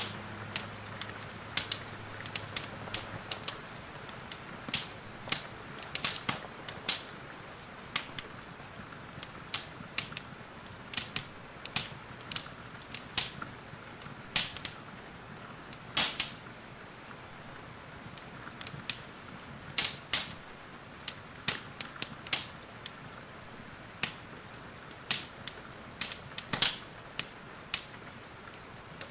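Wood fire in a fireplace crackling, with irregular sharp pops, a few of them much louder, over a steady hiss of rain.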